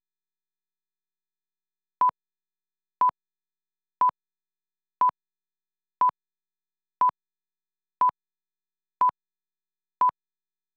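Countdown leader beeps on a broadcast tape slate: a short, pure, high beep once a second, nine in all, starting about two seconds in, with silence between them.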